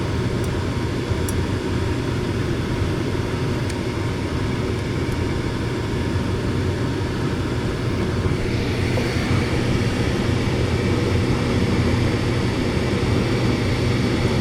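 Gas furnace fan running with a steady drone, with a few light ticks in the first seconds. About eight seconds in, the sound brightens as a higher hiss joins it.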